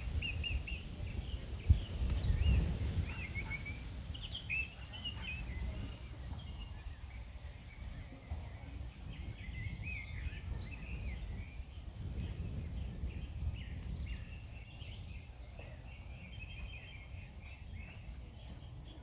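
Several small songbirds singing and chirping over one another, with a steady low rumble of wind that swells briefly about two seconds in.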